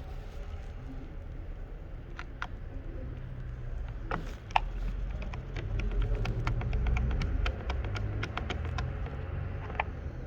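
Irregular small clicks and taps of hands working the plastic parts of a car's headlight stalk switch, sparse at first and then several a second in the second half, over a low steady hum.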